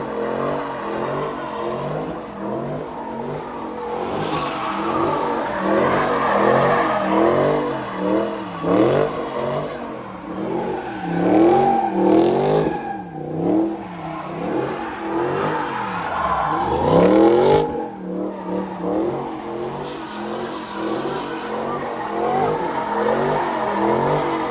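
Car engines revving hard, climbing and falling in pitch again and again, with the loudest surges near the middle and about two-thirds of the way through.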